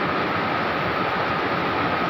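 Steady rain falling, an even unbroken hiss, with a faint steady high tone running through it.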